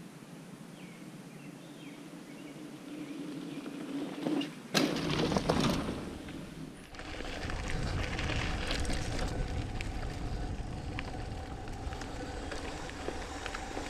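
Trek Mamba mountain bike ridden along a dirt trail: tyre noise and rattling clicks from the bike, with wind rushing on the microphone. About five seconds in, the sound turns louder and deeper, with a burst of rushing noise, and then settles into a steadier rush.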